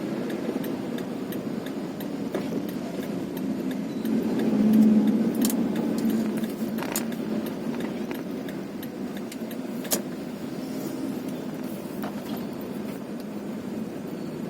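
Vehicle engine and road noise while driving along a road, a steady rumble that swells about five seconds in, with a few sharp clicks or rattles scattered through it.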